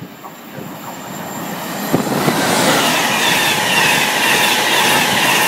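A train running through the station. The rumble and rail noise grow louder from about a second in and then hold steady, with a high ringing from the wheels on the rails.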